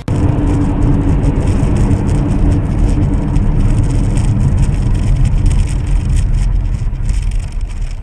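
Loud, steady vehicle rumble with crackling noise in the highs, starting abruptly and easing slightly near the end.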